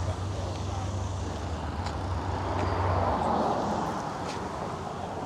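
A motor vehicle's engine running with a steady low hum that stops abruptly about three seconds in, over general outdoor background noise.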